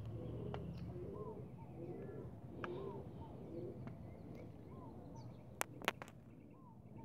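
Birds calling over and over, short curved calls about once a second, with dove-like cooing among them. Two sharp clicks close together about five and a half seconds in.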